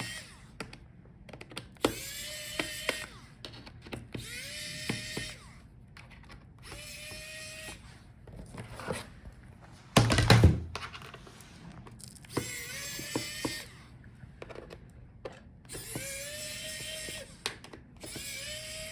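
A small electric screwdriver is backing out laptop bottom-case screws. It runs in short bursts of about a second each, spinning up with a quick rising whine and then holding steady, with pauses between screws. A loud thump comes about ten seconds in.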